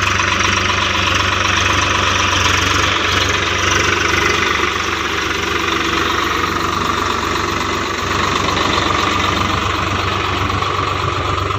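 Swaraj 735 XT tractor's diesel engine running steadily, loud, with an even low hum and a dense mechanical clatter that holds unchanged throughout.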